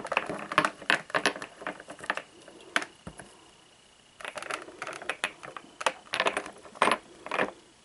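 Hands handling a bird Christmas ornament and its box packaging: a run of small sharp clicks and crackles in two spells, with a short pause about three seconds in.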